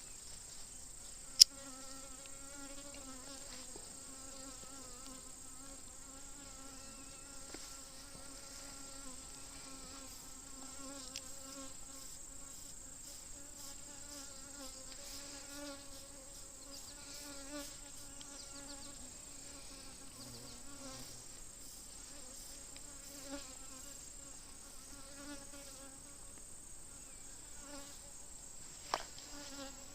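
Honeybees buzzing steadily around an opened hive, a low, even drone from the many bees on and above the frames. A steady high hiss runs underneath, and there is a sharp click about a second and a half in and another near the end.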